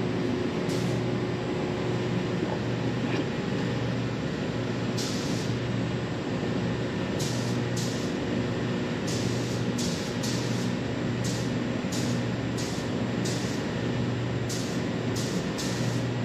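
Engine paint being sprayed in short hissing bursts, many of them in the second half, over the steady rush of a paint booth's ventilation fan.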